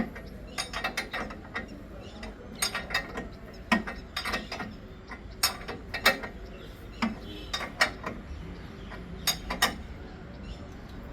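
Ratchet wrench clicking in short, irregular runs, with metal clinks, as bolts are tightened on a tractor bumper being fitted.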